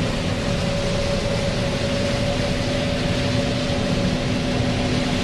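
Combine harvester running steadily in a corn field: a constant machinery rush with a steady hum.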